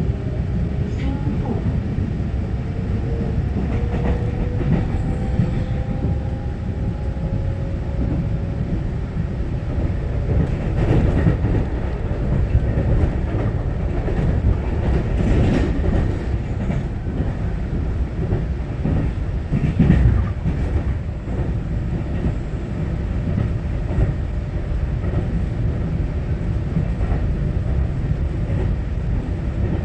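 Taiwan Railway EMU900-series electric commuter train running between stations, heard from inside the carriage: a steady rumble of wheels on rail with scattered clacks. A faint rising motor whine runs through the first several seconds.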